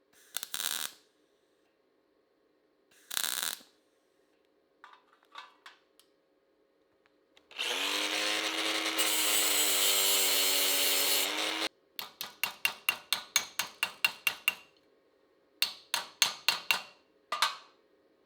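Sheet-metal workshop tools: a few short scraping bursts, then a power tool running for about four seconds and stopping suddenly. Then two quick runs of sharp ringing strikes, about five a second, and one last strike near the end.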